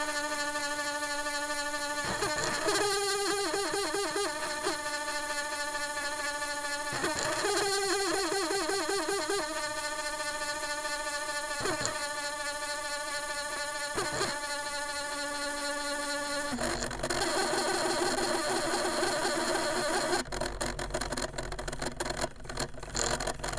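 Motor of a 1980s-era Discman portable CD player whirring as it keeps trying to spin the disc up to speed without getting there, because it lacks the power. The steady whine sweeps in pitch a few times. About two-thirds of the way in it drops to a rougher buzz, and near the end it turns into choppy clicking.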